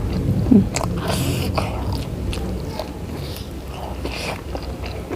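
Close-miked eating: biting and chewing food, with small wet clicks and crunches from the mouth.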